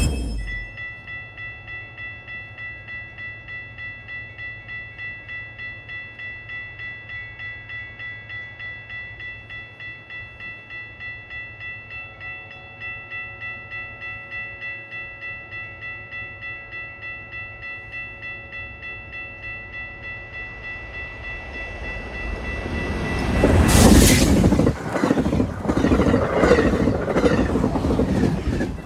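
Railroad grade-crossing bell ringing steadily at about two strikes a second, then a train passing at speed from about 23 seconds in, loud, with wheels clattering over the rail joints.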